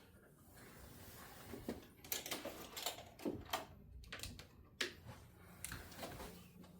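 A run of light, sharp clicks from a metal fret rocker rocking on the guitar's frets, clacking on a slightly high 7th fret. The clicks come several close together a couple of seconds in, then a few more spaced out.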